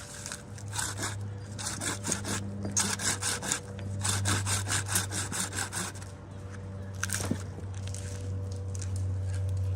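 Hand saw cutting through dead spruce wood in quick back-and-forth strokes. The strokes speed up about four seconds in.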